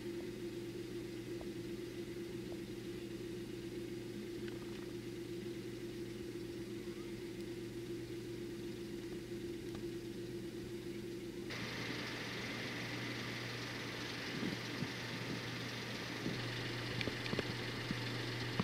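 Steady engine drone with a low hum and a steady mid-pitched tone. About two-thirds of the way through it changes suddenly to a brighter, hissier engine noise with a thin high whine, and a few faint clicks near the end.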